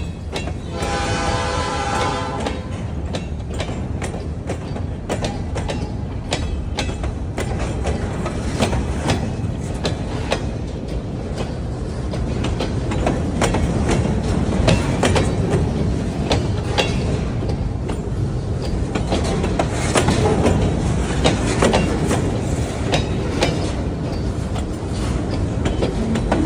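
A freight train led by ELS 501 passing close by. Its horn sounds briefly at the start, then the locomotive rumbles steadily and the wheels click over the rail joints.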